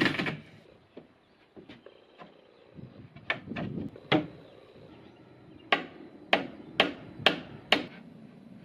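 A loud machine noise cuts off at the very start. Scattered light clicks and taps follow, then five sharp knocks in a row, about two a second, in the second half.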